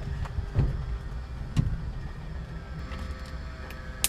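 Steady low mechanical hum, like a running engine, with a couple of dull thumps and a sharp click near the end.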